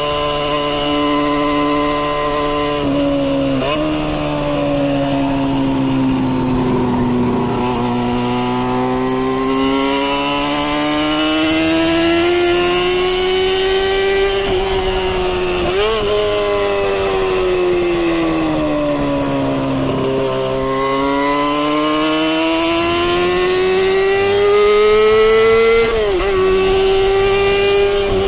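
Kawasaki Balius 250's inline-four engine and exhaust under way, revs sweeping up as it accelerates and falling away as it slows, in long waves. Three quick gear changes are heard.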